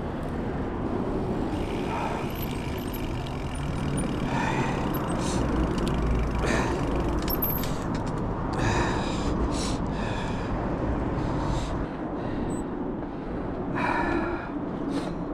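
Mountain bike rolling along a dirt trail, with wind rushing over the camera microphone, and a rider's breaths or gasps every second or two.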